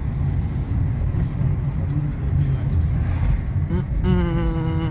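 Low, uneven rumble of road traffic on a street, with a man's voice heard briefly near the end.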